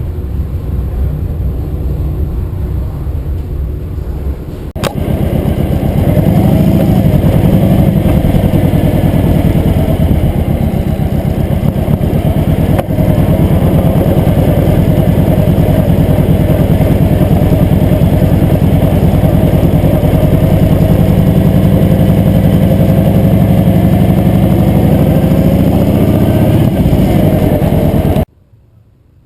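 Motorcycle engine running steadily while riding. The sound jumps louder after a sudden cut about five seconds in, and stops abruptly just before the end.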